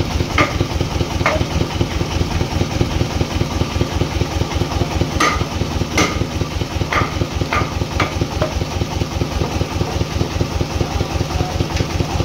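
Engine running steadily at a low idle-like pace, with a rapid low pulsing, and a handful of sharp knocks scattered through it.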